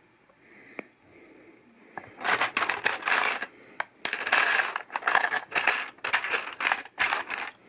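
Loose plastic LEGO pieces being handled and rummaged, clicking and rattling against each other. A few faint clicks come first, then from about two seconds in there are repeated bursts of rattling.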